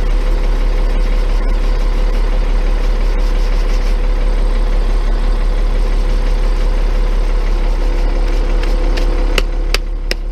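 Tow truck's engine idling steadily, a low drone with a constant hum over it. A few sharp clicks near the end.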